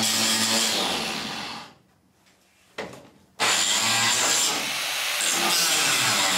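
A power tool running steadily in a workshop. It stops just under two seconds in, then starts up again abruptly about a second and a half later.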